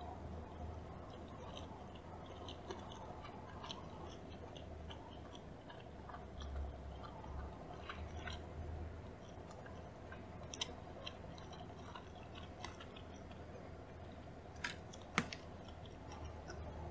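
Close-miked chewing of a mouthful of yellowtail nigiri sushi, soft wet mouth sounds and small irregular clicks. A few sharp clicks near the end as chopsticks meet the plastic sushi tray.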